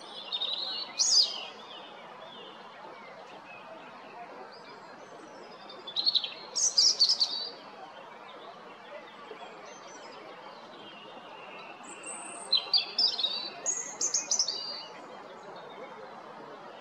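European robin singing: three high, warbling song phrases of quick varied notes, each a second or two long with pauses of several seconds between them, over a steady background rush.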